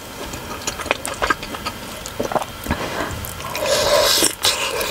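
Close-miked wet chewing of a big, juicy steamed pork momo, full of sharp wet smacks and clicks as the hot filling squishes in the mouth. A louder breathy slurp comes near the end, air drawn in around the very hot bite.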